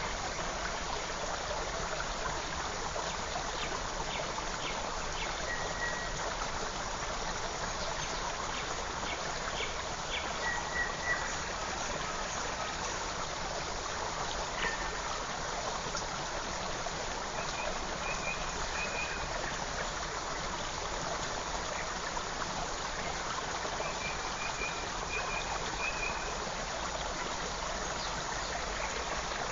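Forest creek running steadily, with a few short bird chirps and two brief trills over the water noise.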